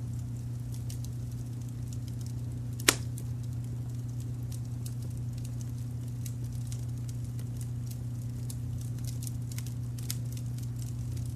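Wood fire crackling with scattered small pops and one loud sharp pop about three seconds in, over a steady low brown-noise rumble.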